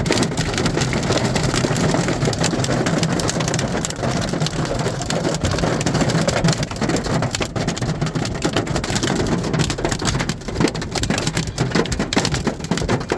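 Hailstorm, with hail and heavy rain pelting down in a dense, continuous clatter of small impacts. The hits become sparser and more distinct near the end.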